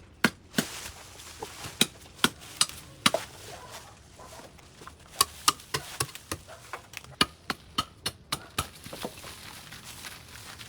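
Repeated sharp chopping strikes of a hand tool cutting into overgrowth, in two runs of quick blows about two or three a second, with a short pause between them.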